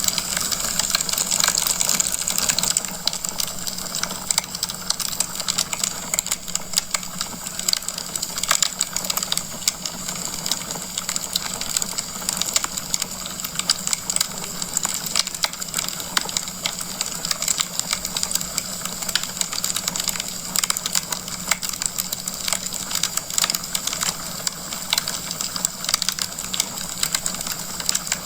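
Wood fire crackling in a fireplace: a dense, unbroken run of small pops and snaps over a soft hiss, a little louder in the first few seconds.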